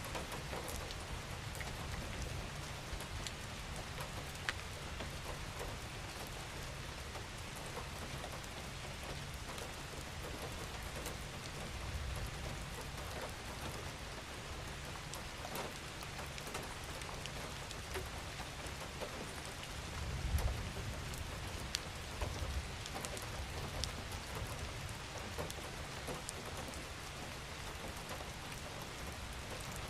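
Steady rain falling on a surface, individual drops ticking through the even hiss. A brief low rumble swells about twenty seconds in.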